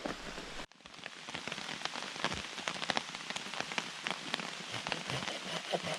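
Heavy rain falling, with drops striking a nearby surface as a dense run of sharp ticks over a steady hiss. The sound cuts out briefly under a second in.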